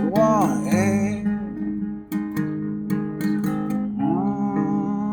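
Solo acoustic guitar strummed through a folk-country waltz, with a sung note trailing off in the first second and a brief wordless vocal about four seconds in.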